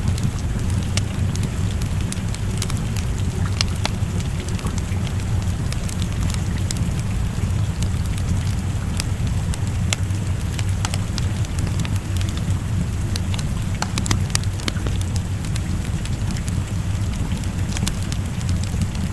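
Wood fire crackling in a fireplace with rain falling steadily: frequent sharp pops and snaps over a constant low rumble.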